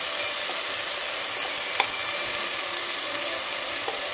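Sliced onions frying in oil in an aluminium pot, a steady sizzle, just after a watery ginger-garlic paste has been spooned in on top. One short click a little before the middle.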